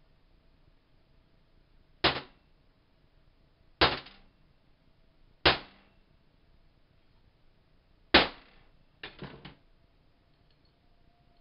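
Sharp knocks used to free a stuck part inside the Crosman air rifle's body: four hard single knocks spaced about two seconds apart, then a quick run of three lighter ones near the end.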